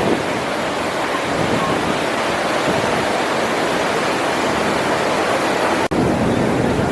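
Steady rushing of a large waterfall, an even wash of water noise with a brief cut-out about six seconds in.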